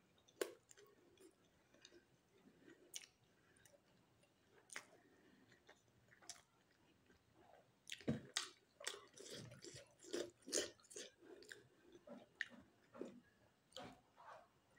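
Close-miked chewing of soft momo dumplings, with wet lip smacks and mouth clicks. A few isolated clicks come first, then from about halfway through the chewing gets much denser and louder.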